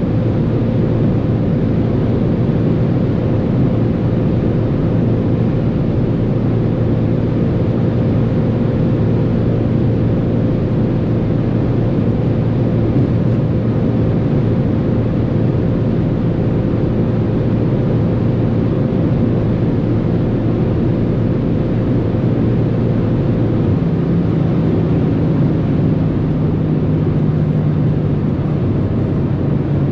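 Straight-piped Audi RS4 B8 4.2 FSI V8 running at a high, near-constant speed, a steady engine drone. About three-quarters of the way through, the engine note shifts slightly higher.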